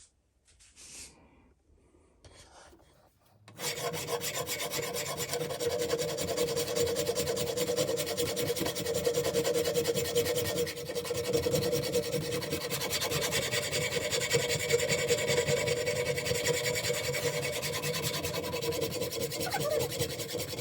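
Sandpaper scraping steadily on the cobbler hammer's old metal head as it is sanded back, starting about three and a half seconds in and stopping just before the end.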